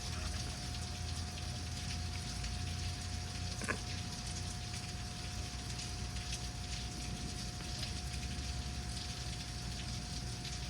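Steady rain falling, with many individual drops ticking on a surface and one sharper drop or tap about three and a half seconds in. A faint steady tone hums underneath.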